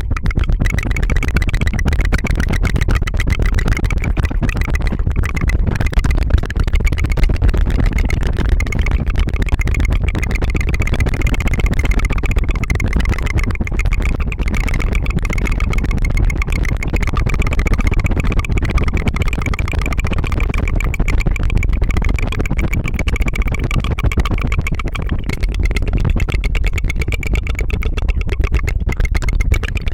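Continuous rapid tongue fluttering close to the microphone, a trilled 'tu-tu-tu' mouth sound that runs without a break as a fast, even buzz of pulses.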